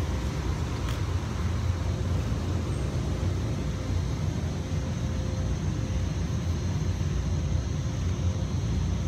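Steady low rumble of outdoor street noise, like traffic.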